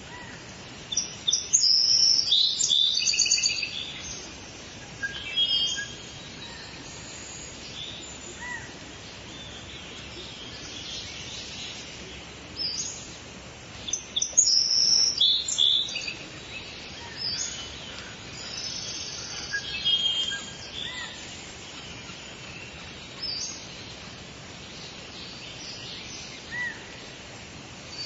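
Songbirds singing in bursts of rapid, high chirping phrases, the loudest about a second in and again around the middle, over a steady hiss of outdoor background noise.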